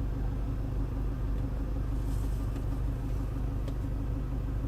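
2015 Toyota Land Cruiser Prado's engine idling steadily, a low even hum heard from inside the cabin, with two faint clicks at about two and a half and three and a half seconds in.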